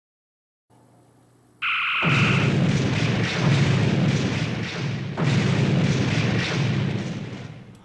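A short electronic two-tone beep, then deep rumbling, explosion-like booms that swell a few times and fade out near the end.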